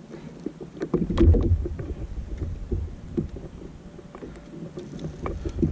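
Scattered clicks and knocks of gear being handled in a small fishing boat, with a low rumble, the loudest part, about a second in.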